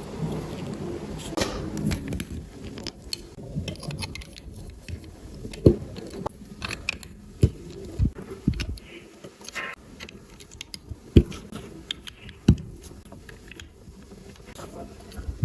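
LEGO plastic pieces being handled and pressed together, with irregular sharp clicks over light rattling and scraping. The three loudest snaps come about six, eleven and twelve and a half seconds in.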